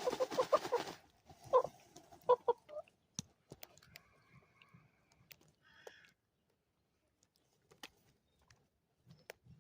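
Hens clucking softly a few times while dust bathing, with a rustle of dry soil being flicked about in the first second. After about three seconds only scattered small scratches and clicks remain.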